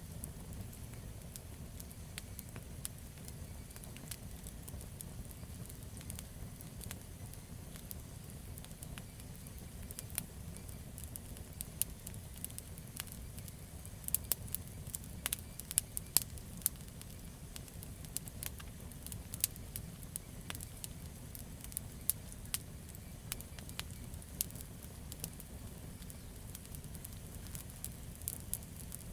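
Wood campfire burning with a steady low rumble and irregular sharp crackles and pops, busiest about halfway through.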